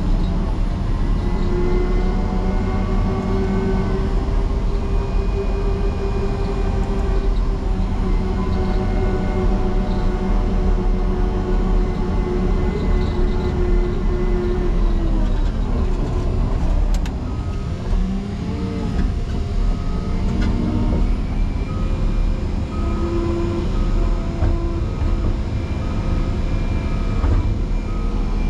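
Caterpillar 140M motor grader's diesel engine working hard under load while ramming a snow drift. About halfway through, the engine pitch drops as it lugs down, then it builds back up a few seconds later. A faint, evenly repeated beep sounds in the last several seconds.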